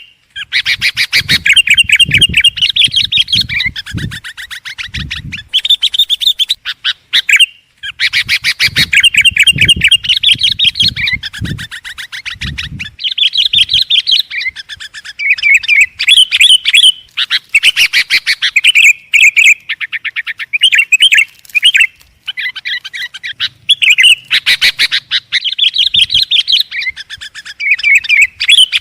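Sooty-headed bulbul (kutilang) singing loudly and almost without pause, in fast, busy chattering phrases with only brief breaks. Low thumps sound beneath the song in the first half.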